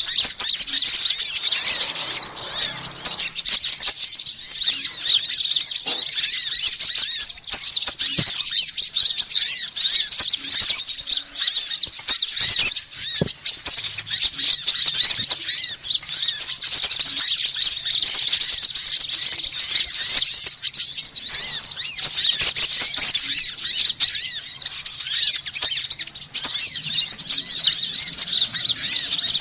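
A dense, unbroken chorus of many small birds chattering and chirping fast and high-pitched, with no pause: a bird-luring (pikat) call meant to draw small birds in.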